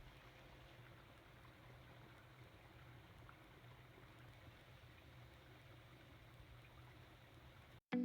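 Near silence: faint steady background noise with a low hum, cut off abruptly near the end.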